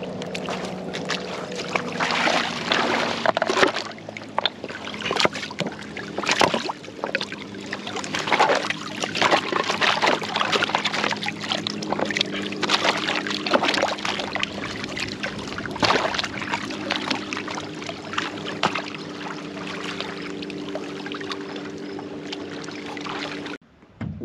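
A boat's motor running steadily on open water, with water splashing and slapping against the hull; the motor's pitch shifts about halfway through. It stops abruptly near the end.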